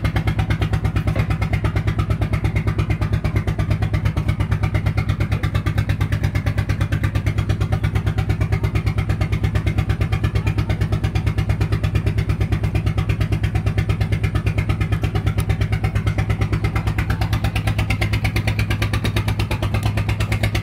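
Motorized ferry boat's engine running steadily at a constant speed, an even, rapid pulsing beat over a low hum.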